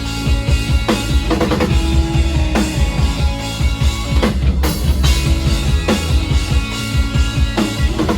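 Live rock band playing an instrumental passage: a drum kit with bass drum and snare hits under guitars.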